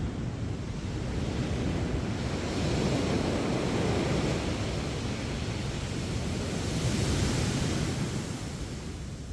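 Sea surf breaking and washing up the beach: a steady rushing hiss that swells twice, once about three seconds in and again, brighter, about seven seconds in, as waves come in.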